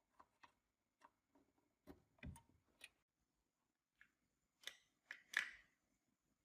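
A series of faint, scattered clicks and light taps, with a slightly louder pair of knocks about five seconds in.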